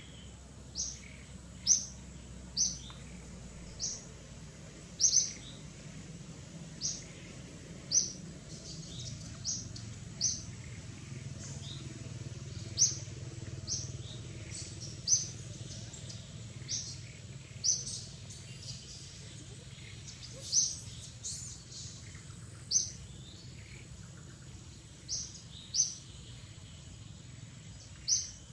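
A bird calling, a single short high chirp repeated at uneven intervals of one to two seconds, over a faint steady low rumble.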